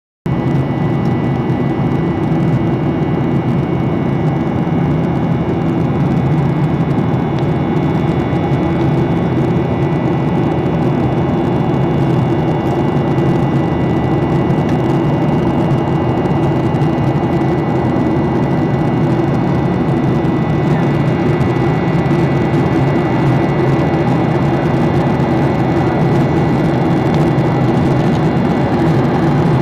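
Steady drone of a passenger airplane's cabin in flight, engine and air noise with faint high steady tones over it.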